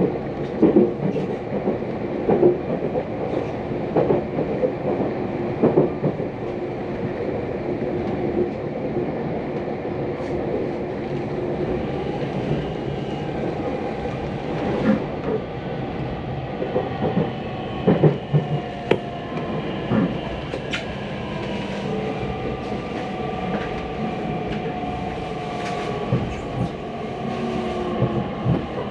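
Tokyu Ikegami Line electric commuter train heard from inside the car, running with wheels clicking over rail joints. Through the second half a motor whine shifts in pitch, typical of the train slowing for its next stop.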